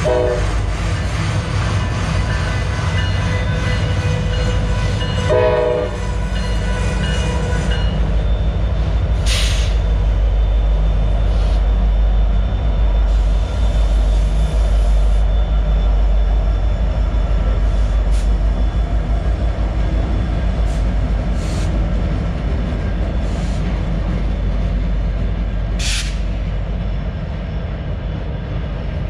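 Long freight train passing close by, with a heavy, continuous low rumble. Over the first several seconds, as freight cars roll past, a few steady high tones ring out. Then a group of Norfolk Southern diesel locomotives passes and the low rumble grows stronger.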